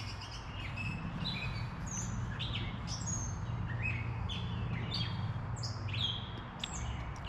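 Small birds chirping: many short, quick chirps that fall in pitch, repeated throughout, over a steady low background hum.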